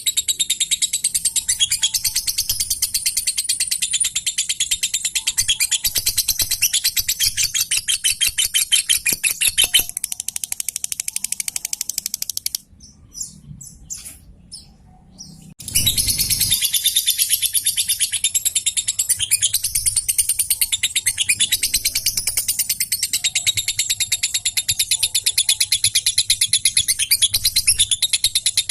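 A lovebird in full song with a long, rapid, high-pitched chattering trill (ngekek). It breaks off for about three seconds near the middle, with only a few faint calls, then resumes just as loud and fast.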